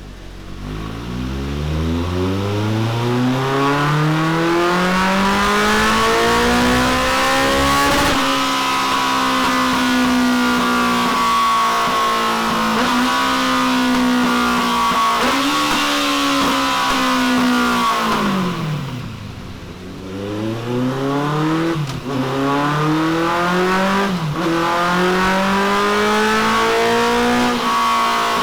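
Honda CB1300 SuperFour inline-four engine breathing through a Delkevic DS70 carbon fibre oval muffler, accelerating hard with its pitch climbing and holding high, dipping briefly at each gear change. About two-thirds through, the throttle closes and the revs drop, then the engine pulls up through the gears again.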